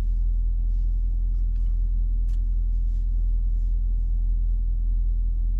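A Dodge Durango's engine idling steadily, heard from inside the cabin as a low, even rumble.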